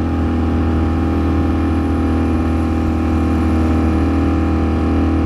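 Ducati Streetfighter V4 S's V4 engine running at a steady speed while cruising, with no change in pitch, heard through the rider's onboard microphone rather than at the exhaust.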